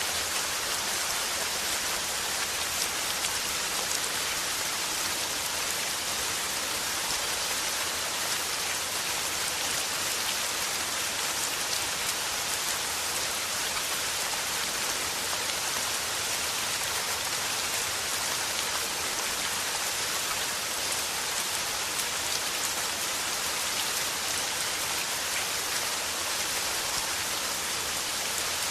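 Steady rain falling, an even patter of drops hitting a surface with no change in intensity.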